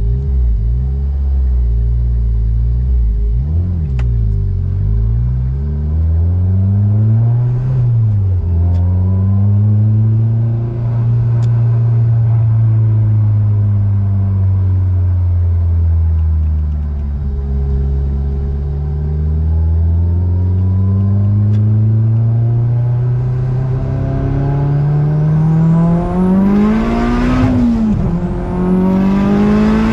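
Big-turbo Mazdaspeed6's turbocharged 2.3-litre four-cylinder heard from inside the cabin, cruising with the revs rising and falling through gear changes. Near the end it is floored twice in quick succession, the revs climbing hard toward 7,000 rpm with a high turbo whine rising over the engine, broken by a gear change.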